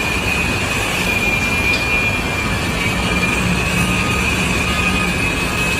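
A steady high-pitched squeal, holding one pitch, over a continuous rumbling noise.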